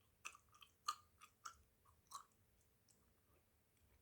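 Wet, sticky mouth sounds of Hubba Bubba bubble gum being chewed close to the microphone: a quick run of soft clicks and smacks over the first two seconds, then only a few faint ticks.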